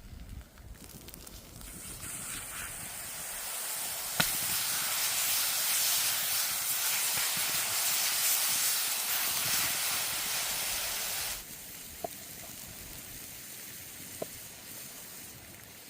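Food sizzling: a loud hiss that builds over the first few seconds, then cuts off suddenly about eleven seconds in. There is a sharp click about four seconds in and a few faint crackles after the hiss stops.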